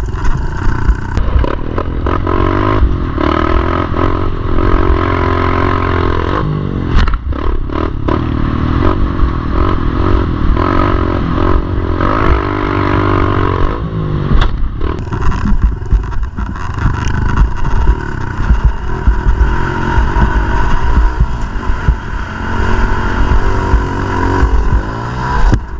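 Pit bike engine running and revving up and down, with frequent knocks and clatter.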